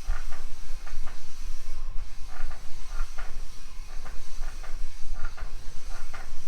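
Gritty scraping of a main-bearing barrel lap and lapping compound in a Harley-Davidson K-model crankcase bearing race, coming in short repeated strokes as the lap is worked in and out. The lap is grabbing and the compound is cutting the race.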